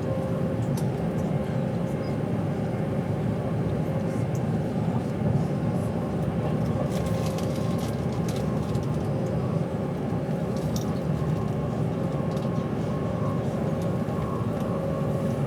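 Steady rumble of a passenger train running at speed, heard inside the carriage, with a faint steady hum over it and scattered light ticks and clicks.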